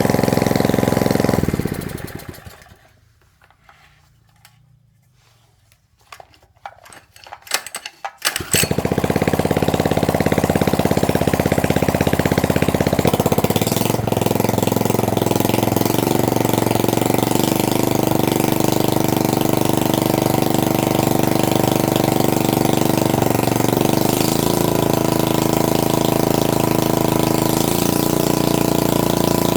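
A 750 W electric motor running steadily, then switched off about a second and a half in and winding down to a stop. After a few seconds of quiet and some scattered clicks and crackles, it starts again abruptly and runs steadily.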